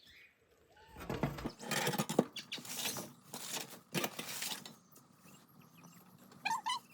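Rustling and scraping handling noises for a few seconds, then near the end a puppy gives a short, high, wavering whine.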